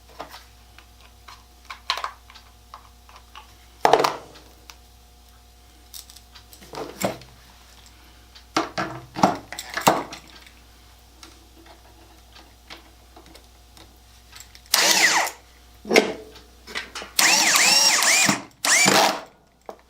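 Clicks and knocks of a caster and screws being handled, then a power drill driver running in short bursts near the end as screws are driven to mount the caster.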